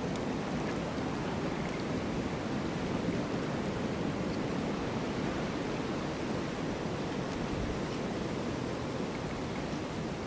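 Snowstorm wind blowing in a steady, even rush, with no single gust or event standing out.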